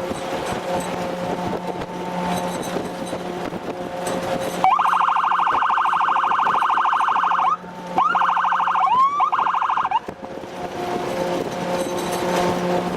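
Electronic siren sounding in two loud bursts of fast-pulsing warble, the first about three seconds long and the second about two, each starting with a quick upward sweep. A steady vehicle engine drone runs underneath.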